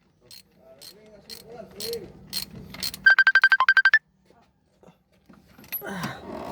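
Phone ringtone: a burst of rapid electronic beeps at one high pitch, about a second long, a few seconds in. Faint voices come before it and near the end.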